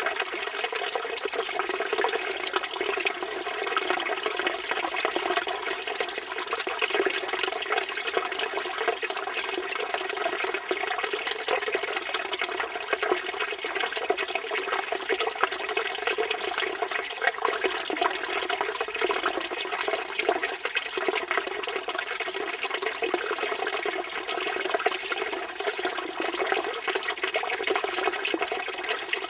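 Water from a village fountain running and splashing steadily, an unbroken even rush of falling water.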